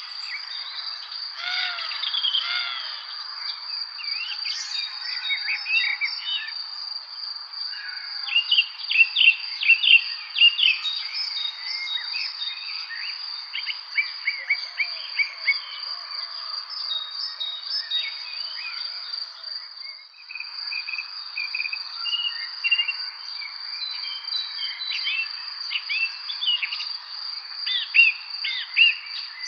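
Many songbirds chirping and singing in a spring evening chorus, with dense runs of quick chirps. Under them runs a steady high-pitched tone without a break.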